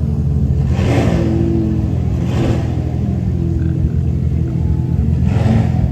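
Toyota 2JZ straight-six in a Nissan S14 idling with a deep, steady rumble. It is revved in short blips about a second in, again about halfway through, and near the end.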